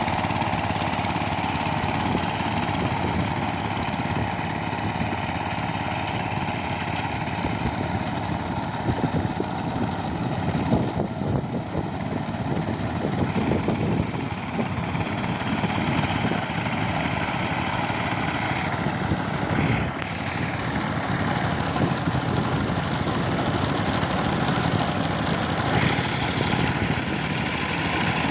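Power tiller engine running steadily with a fast, even chugging beat.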